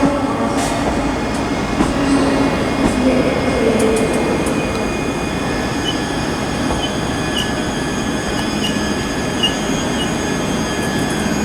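ScotRail Class 385 electric multiple unit, a 3-car and 4-car pair coupled together, rolling slowly into a terminus platform. A steady rumble of wheels on rail is laced with thin, high wheel squeal, and a few short high squeaks come in the middle part.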